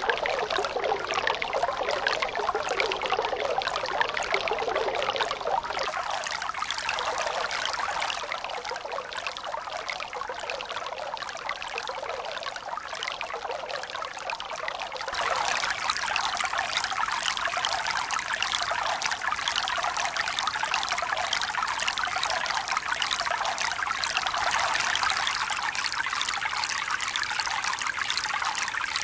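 Running water: a steady, even rush with no rise and fall of breaking waves. About halfway through it turns brighter and a little louder.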